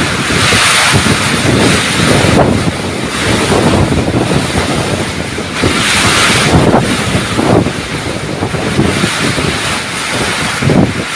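Typhoon-force wind blowing hard and gusting, buffeting the microphone with a heavy low rumble. Hissing gusts swell about a second in and again around six seconds in.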